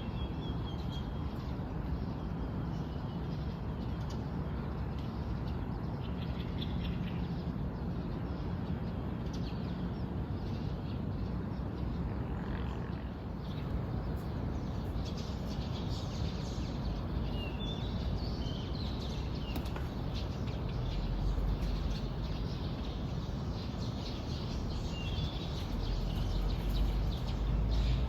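Birds chirping, short high calls scattered through, over a steady low rumble that grows louder near the end.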